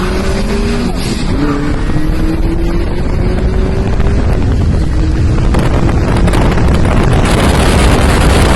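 A car engine pulling hard under acceleration, its pitch rising, dropping once about a second in as if on a gear change, then climbing again. Heavy wind noise builds over it.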